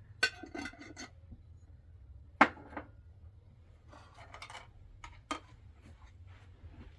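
A few scattered knocks and clatters, the loudest about two and a half seconds in, with faint rustling, over a steady low hum.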